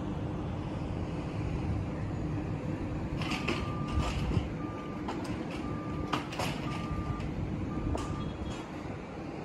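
Vehicle reversing alarm beeping five times at an even pace over a steady engine and traffic rumble, with a few sharp clicks and rattles among the beeps.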